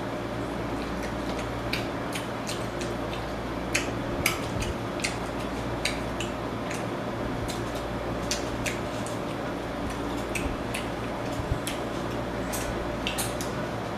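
Wet mouth smacks and chewing clicks from eating sauce-coated fried chicken, irregular and about one or two a second, over a steady low hum.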